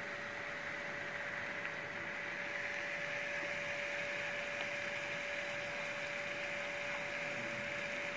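Diced chicken breast and chopped onion sizzling in a hot frying pan, a steady hiss that grows a little louder a few seconds in. A steady hum runs underneath.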